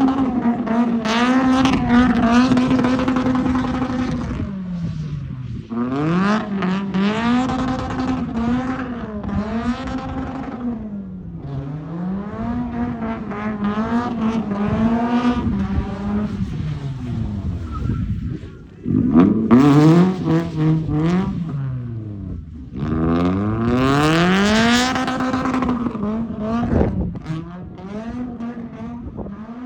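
Drift car's engine revving hard and held near the rev limiter for long stretches, its pitch dropping and climbing back again several times as the throttle is lifted and reapplied through the slides.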